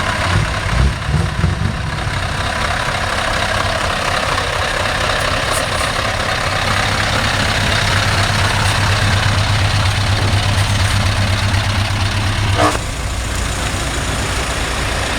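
Diesel truck engines running as a convoy of heavy trucks drives past, a steady low rumble with road noise that swells and then drops off sharply with a short burst of sound about three-quarters of the way through.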